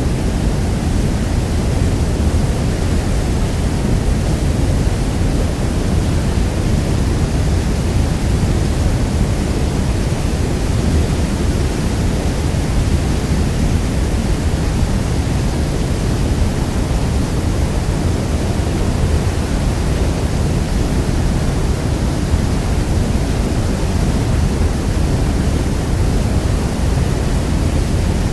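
Niagara Falls: the steady rush of a huge volume of falling water, a dense, even noise heaviest in the low end and unchanging throughout.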